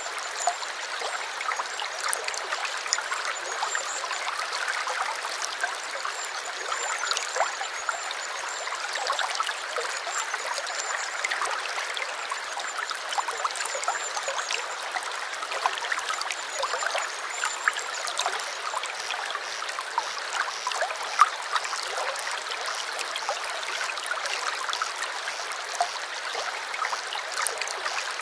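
A small brook trickling and babbling: a steady rush of flowing water with many small splashes.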